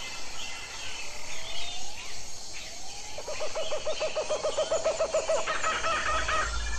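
Birds calling: a few rising whistled glides, then a rapid trill starting about three seconds in, with higher chirps near the end.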